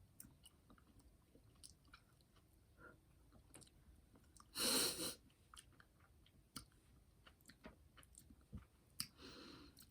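Close-up chewing of a jelly bean candy, with scattered soft mouth clicks. A short, loud breath cuts through about halfway through, and a softer one comes near the end.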